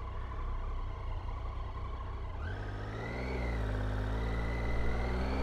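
Triumph Tiger 800's three-cylinder engine running under a low wind rumble, heard through a helmet microphone; about halfway through the engine note rises as the bike accelerates, then holds steady.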